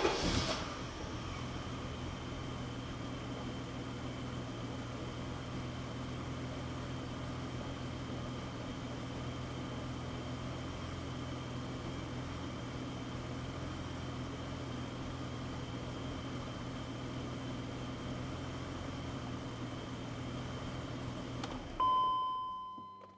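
BMW 535i E34's M30 straight-six settling into a steady, even idle just after starting, running well with new spark plugs and a new air mass meter fitted. Near the end the engine noise stops and a short ringing tone fades out.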